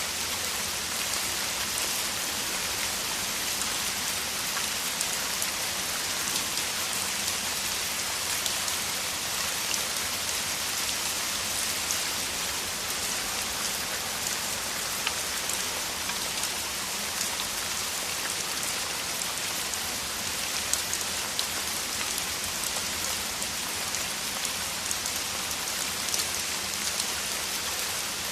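Heavy rain falling steadily, a dense hiss of raindrops with many fine droplet ticks.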